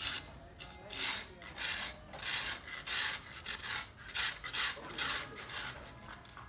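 Rasping, scraping strokes of a hand tool worked back and forth on a hard surface, roughly two strokes a second, getting weaker near the end.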